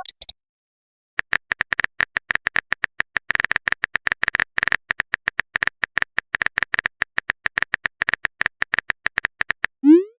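Rapid, irregular clicking of a phone keyboard typing sound effect, many clicks a second, starting about a second in and stopping just before the end.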